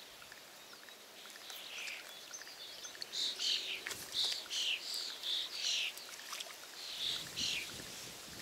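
A songbird singing: a run of short, clear notes that each slide downward, about two to three a second, with a couple more near the end.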